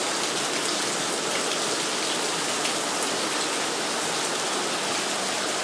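Steady rain falling and splashing, with water draining off the top of a building down to the ground. An even hiss with scattered drop ticks, unchanging throughout.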